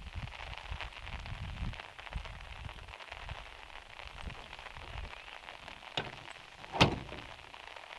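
Rain falling on a van's metal roof: a steady hiss of many small drop ticks. A sharp click comes about six seconds in, and a louder knock just before seven seconds.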